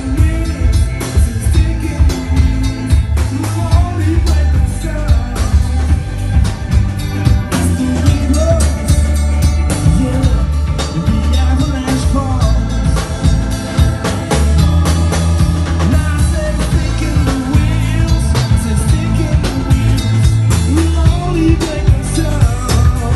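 Live band playing a song with a drum kit, a heavy bass line and a singing voice, the sound of a sound check.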